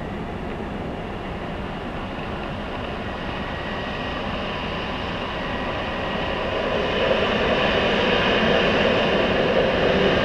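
Electric multiple unit train approaching along the line, its rumble and wheel-on-rail noise growing louder about seven seconds in.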